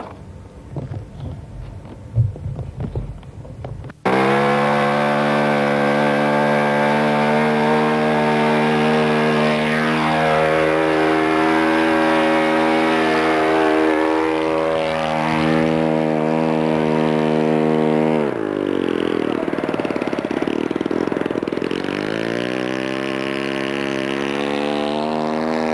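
Radio-control model aircraft's glow engine running steadily at high throttle, starting abruptly about four seconds in. Near the end it is throttled back to a lower pitch, then opened up again. Before it starts there are scattered knocks and handling sounds.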